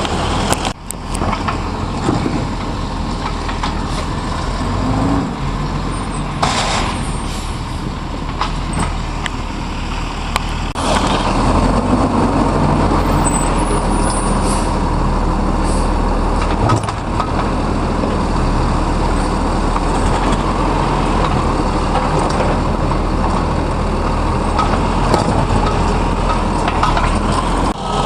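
Garbage truck engine running steadily, with a brief hiss about six seconds in, then growing louder from about eleven seconds in.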